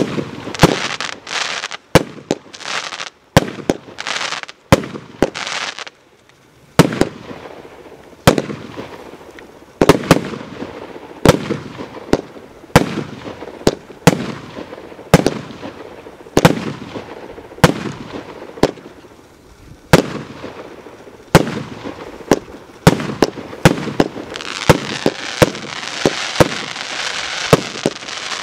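A 232-shot consumer fireworks battery firing in sequence: sharp bangs about once a second, each followed by a fading hiss of burning stars. From about three-quarters of the way in, a dense crackle of crackling-star effects fills the gaps between the bangs.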